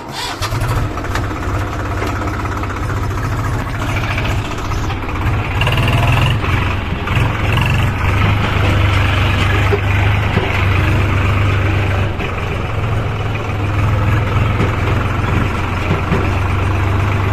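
Heavy diesel engine running steadily at close range, with a strong low hum; it cuts in abruptly at the start.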